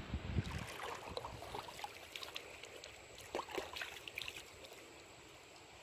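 River water trickling and lapping, with scattered small splashes and drips that are busiest in the first second and thin out toward the end.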